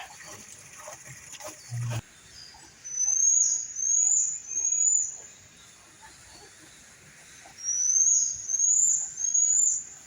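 A bird calling with high, loud whistled notes, each rising and then dropping sharply at the end, in two phrases of three notes about four seconds apart.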